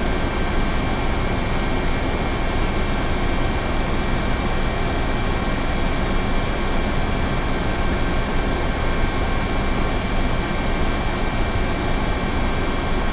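Helicopter rotor and engine noise, a steady even drone with faint steady tones and no change throughout.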